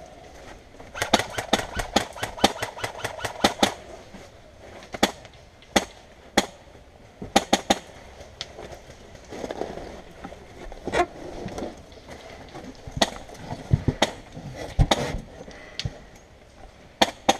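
Airsoft guns firing: a fast string of sharp shots over the first few seconds, then single shots and short pairs scattered through the rest.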